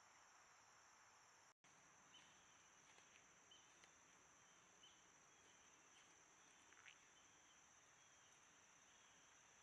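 Near silence: faint hiss with a steady high insect drone and a few faint short chirps, broken by a split-second dropout about one and a half seconds in.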